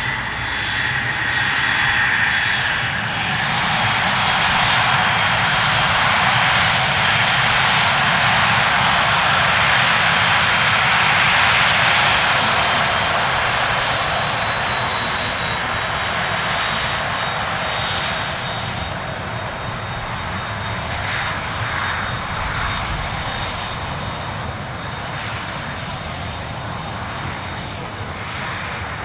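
Aircraft engines passing, with a high whine that falls slowly in pitch. The sound builds over the first dozen seconds, then gradually fades.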